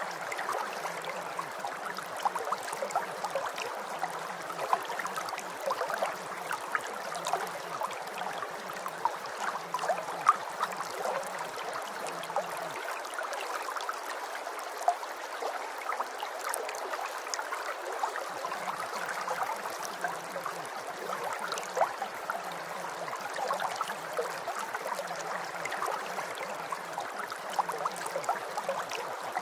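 Steady rain falling, a dense patter of many small drops. Beneath it runs a faint low pulsing hum that drops out for a few seconds midway.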